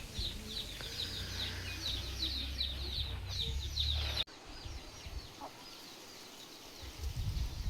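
Birds chirping rapidly: many short, high, falling notes, with a low wind-like rumble underneath. About four seconds in, a cut drops to quieter outdoor background with only a few faint chirps.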